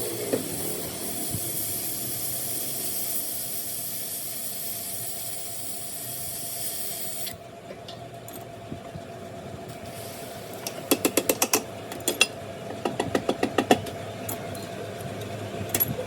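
A steady hiss that cuts off abruptly about seven seconds in. Two quick runs of light, sharp taps follow, over a faint steady hum.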